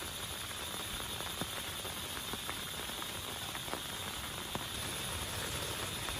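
Steady heavy rain falling, with a few single drops ticking sharply close by.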